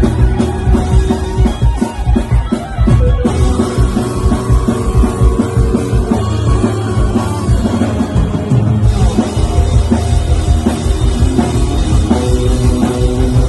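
Rock song played loud on drum kit with guitar and bass, the drums prominent with a steady kick-drum and cymbal beat.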